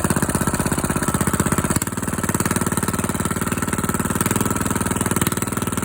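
Carbureted engine idling steadily after a cold start, warmed almost to operating temperature. It beats fast and even, with a slight change in its sound about two seconds in.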